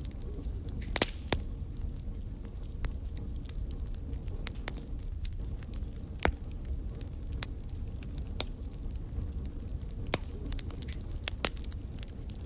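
Wood fire burning in a fireplace: a steady low rumble of the flames with irregular crackles and sharp pops of the burning wood, the loudest pop a little past the middle.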